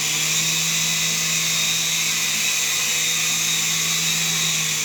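Small electric RC helicopter in flight: the steady high whine of its motor and rotor, with a constant low hum underneath.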